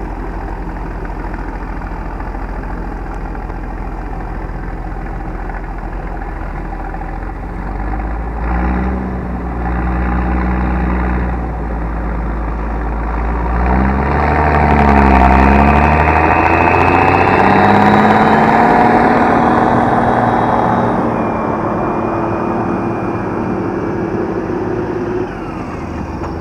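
Large farm tractor's diesel engine running steadily, then revving up and down from about eight seconds in, loudest in the middle, before settling back.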